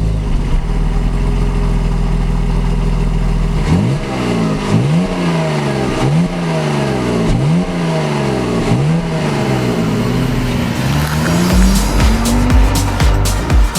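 Car engine running steadily, then revving up and dropping back over and over, about once a second and a bit, as in hard acceleration with quick gear changes. Electronic music with a heavy beat comes in near the end.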